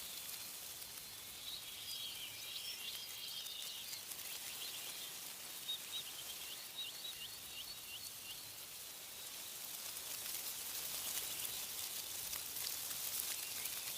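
Small songbirds chirping over a steady hiss of wind in tree leaves. Around the middle one bird gives a quick run of about six short repeated notes, and the wind grows louder over the last few seconds.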